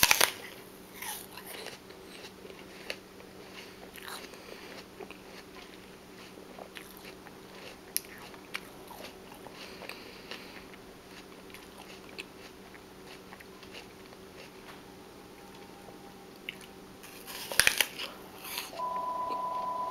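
A person bites into crunchy raw food close to the microphone, chews with scattered small crunches, and takes another loud bite near the end. A faint steady hum runs underneath, and a steady high tone sounds for about a second just before the end.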